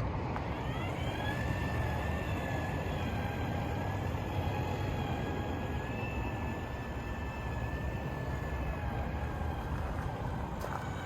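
Cordless electric urethane caulking gun running: its motor winds up in a rising whine, then holds a steady whine for about nine seconds while it lays the windshield adhesive bead, over a low rumble.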